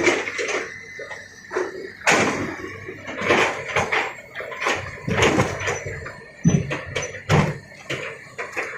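Stones knocking and scraping against each other and a hard surface in an irregular clatter, with several louder knocks and no steady engine sound.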